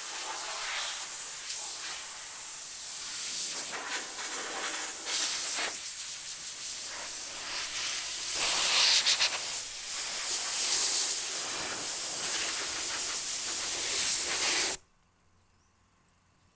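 A pressurised jet hissing steadily as the car is washed, swelling and easing a little, then cutting off suddenly near the end.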